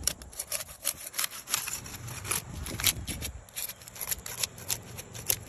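A hand tool scraping and rasping against shingles in many short, irregular strokes, several a second, thinning out briefly just past the middle.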